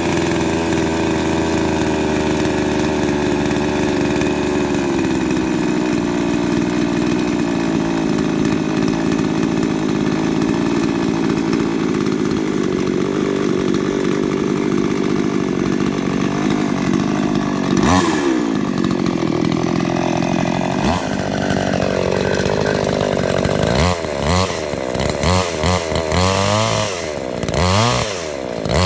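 Glodix chainsaw running at a steady speed, then revved up and down repeatedly in quick blips during the last few seconds.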